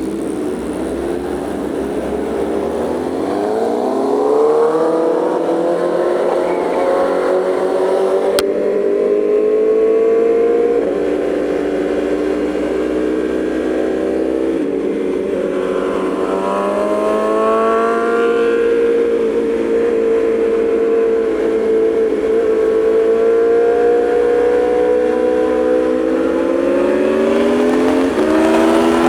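Aprilia Tuono V4's V4 engine pulling away and accelerating through the gears, its pitch climbing then dropping at each shift, then holding a steady cruise before another shift near the end.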